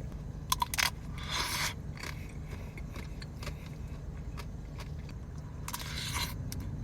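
Someone biting into a chocolate-dipped ice-cream cone: a few sharp cracks of the hard chocolate coating about half a second in, then two stretches of wet, noisy mouth sounds as it is eaten, over a steady low hum.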